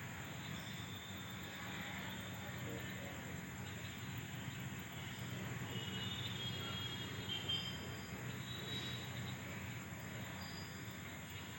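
Steady outdoor night ambience: insects trilling continuously, with scattered short chirps, over a faint steady low hum. No thunderclap is heard.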